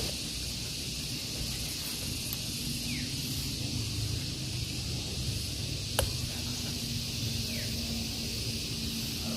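Steady outdoor hiss over a low rumble, with a single sharp click about six seconds in and two short falling chirps.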